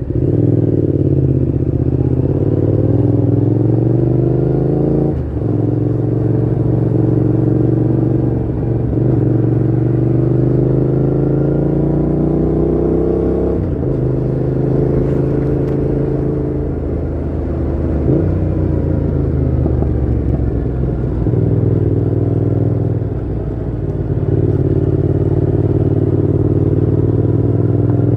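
Yamaha MT-07's parallel-twin engine through a Mivv GP Pro full exhaust with the dB killer fitted, accelerating hard through the gears. The pitch climbs and drops sharply at upshifts about five, nine and fourteen seconds in, then eases off and holds steadier near the end.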